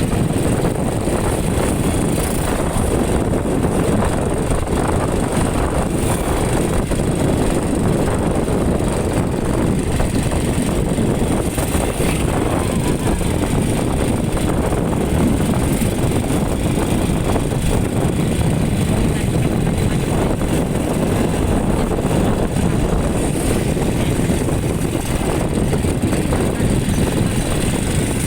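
Steady wind rush buffeting the microphone on a moving motorcycle, over the motorcycle's engine and road noise.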